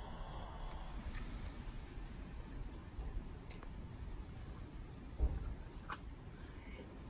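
Faint outdoor ambience with a low rumble, a few soft clicks and a thump about five seconds in, while small birds give thin high chirps and, near the end, a falling whistled call.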